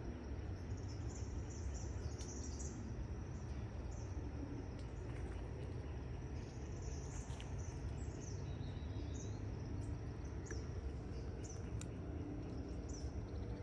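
Small birds chirping in short, high calls scattered throughout, over a steady low outdoor rumble.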